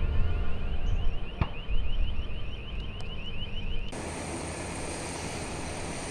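A rapidly repeating electronic chirp, about seven a second, like an alarm, over a low rumble. About four seconds in it cuts off abruptly, replaced by the steady hiss and high whine of jet aircraft engines.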